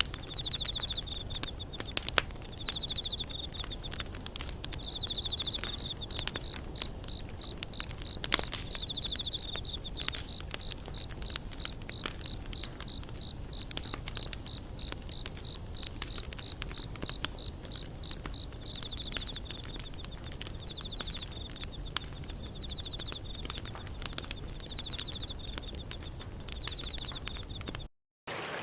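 Wood fire crackling with frequent sharp pops while insects chirp in repeated trills, over a low steady rumble of flowing water. It all cuts out abruptly just before the end.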